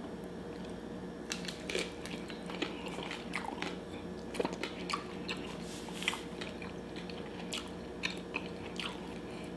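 Close-up eating sounds of a chicken taco dipped in Alfredo sauce being bitten into and chewed: scattered soft crunches and wet mouth clicks, over a faint steady hum.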